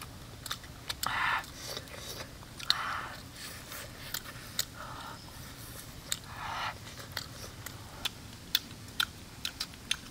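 Eating crispy fried frog: crunching and chewing, with many sharp clicks of bites and a few short hissy crunches.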